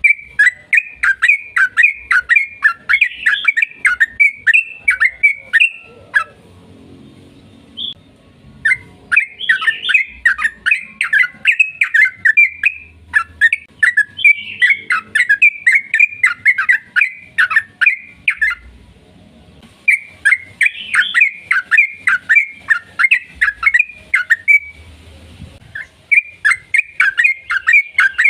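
Yellow-vented bulbul (trucukan) singing long runs of quick chattering notes, each run several seconds long, with short breaks between them about a quarter of the way in, two-thirds of the way in and near the end.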